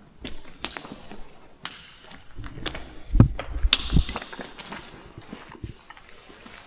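Footsteps and knocks of a person moving over rock: irregular taps and scrapes, with two heavy thumps about three and four seconds in.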